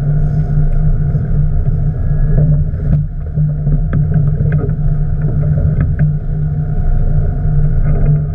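Boat engine running steadily, a constant low hum with rumble beneath. A few light clicks come through a few seconds in.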